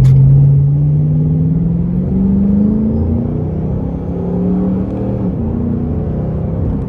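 Ford Mustang with a Roush Extreme axle-back exhaust accelerating, heard from inside the cabin: a deep, throaty exhaust note rising in pitch over the first two seconds, holding at a higher pitch, then easing off about five seconds in.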